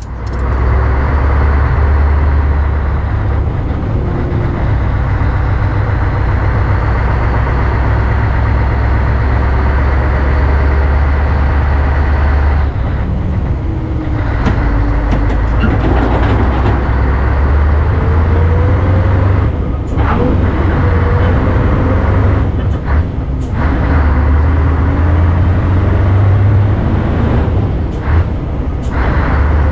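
Lorry tractor unit on the road towing a loaded trailer: a loud, steady engine drone and road rumble, with the engine note shifting about halfway through.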